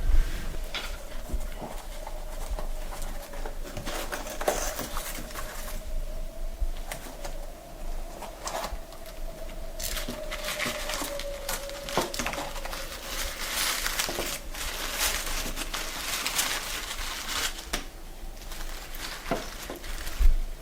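Rustling and handling noise with scattered small clicks and knocks, over a faint steady hum.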